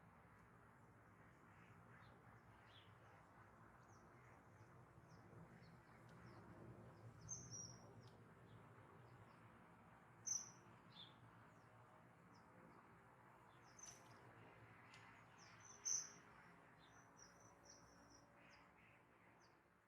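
Faint wild-bird chirps: short, high calls scattered irregularly, the loudest about ten and sixteen seconds in, over a faint steady background of outdoor noise.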